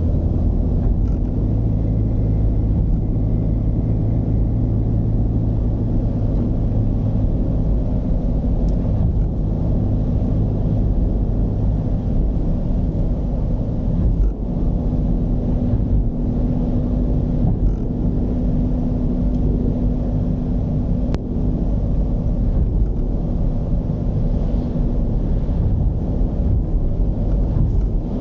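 Mercedes-Benz V220 diesel van engine running under way, with road noise: a steady low rumble, its hum changing pitch about halfway through.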